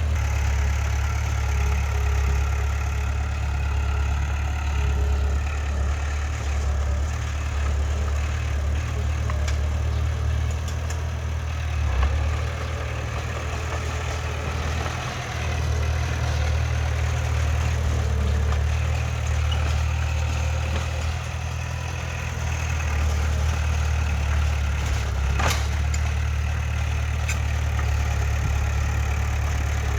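Heavy diesel engine of earthmoving machinery running steadily with a deep, even hum, easing briefly a couple of times; a single sharp click near the end.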